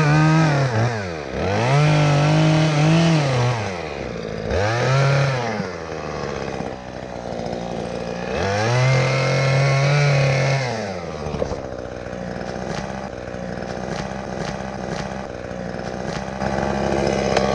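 Chainsaw revving and cutting a dead ash branch, the engine rising and falling in four long surges over about eleven seconds, then settling to a lower steady running before picking up again near the end.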